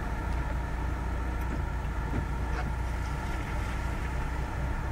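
A car engine running steadily with a low hum.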